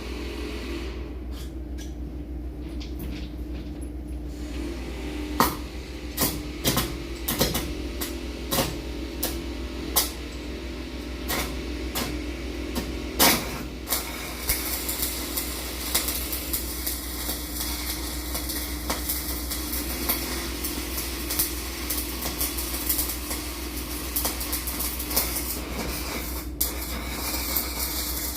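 Welding nuts onto the ends of bolts: sharp metal clanks every second or so from about five seconds in, then a dense, steady crackle of a welding arc from about halfway through, over a constant machine hum.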